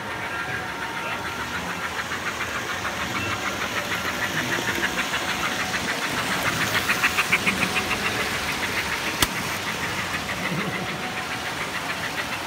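American Flyer toy motorized handcar running along the track, its small freshly overhauled motor and wheels giving a rapid, even clicking rhythm. The rhythm swells to its loudest a little past the middle as the car passes closest, and there is one sharp click toward the end.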